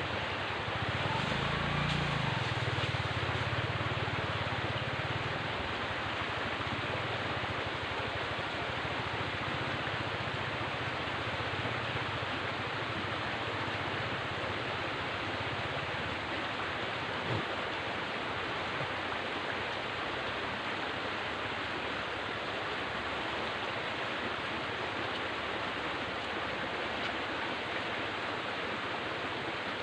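River water flowing with a steady rushing sound, joined by a low rumble in the first few seconds.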